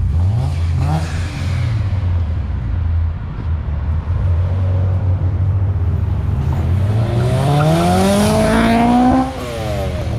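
A car engine blips briefly, settles to a low steady drone, then accelerates hard with a long rising pitch for about three seconds before the pitch drops sharply near the end.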